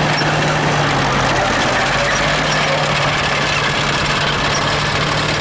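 Vintage farm tractor engine running steadily at low revs.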